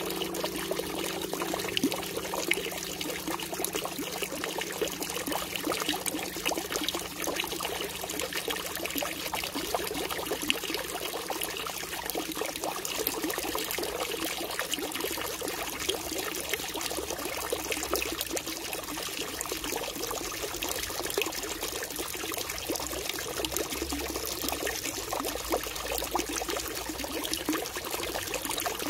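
Running water splashing and trickling: a steady rush dotted with many small splashes.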